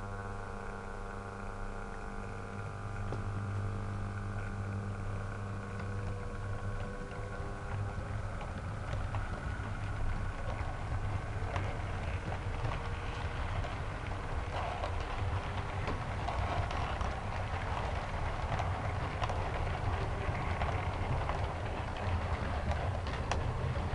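OO gauge model diesel train running on the layout: a steady humming tone fades away over the first half, then the rumble of wheels with small clicks over the rail joints grows louder toward the end.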